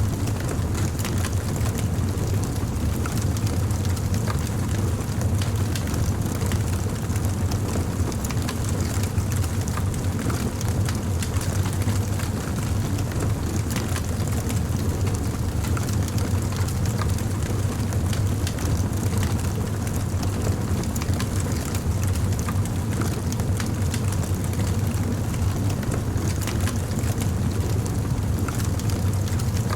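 Campfire burning with a steady low rumble of flames and frequent small, irregular crackles and pops from the burning wood.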